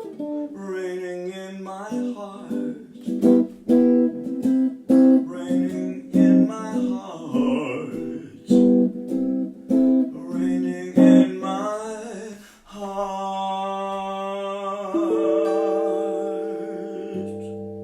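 Acoustic guitar accompanying a singing voice: evenly struck chords under the sung melody, then a long held note with vibrato over a final chord that rings out near the end.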